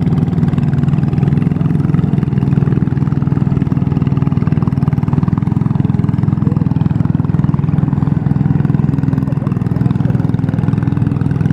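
Garden tractor engine running steadily, an even drone with no change in pitch.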